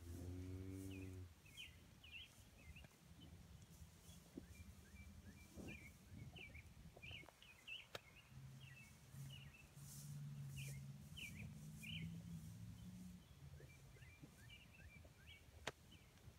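Faint outdoor ambience: small birds chirping over and over, short high chirps every second or so. A low pitched drone sounds briefly at the start and again from about eight to thirteen seconds in.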